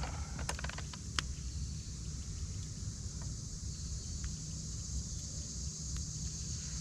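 Campfire crackling, with irregular sharp pops and clicks, a cluster of them in the first second or so, over a steady high evening insect chorus and a low rumble.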